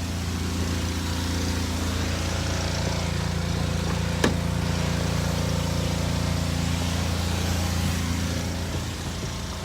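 2000 Honda Accord LX engine idling steadily, running smoothly. A single sharp click comes about four seconds in.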